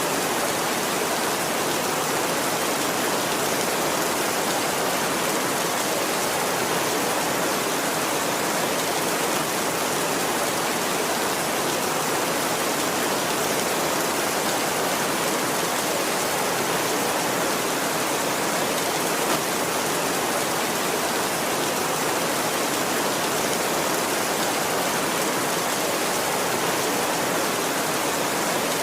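Heavy rain falling steadily: a dense, even hiss with no thunder in this stretch.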